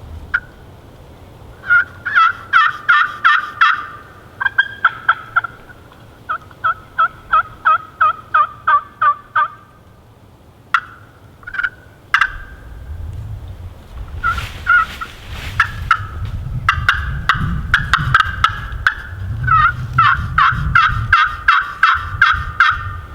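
Wild turkeys calling in several runs of quick, evenly spaced yelping notes, about four to six a second. There are a few sharp rustles in the middle, with a low rumble under the later calls.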